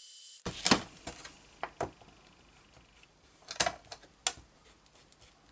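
Embossing heat gun blowing steadily, switched off about half a second in, followed by a handful of light clicks and taps from setting the tool down and handling the journal on the desk.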